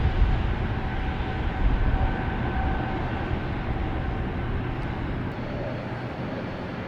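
Airliner engine noise, a steady rumble with a faint whine in it, slowly dying away.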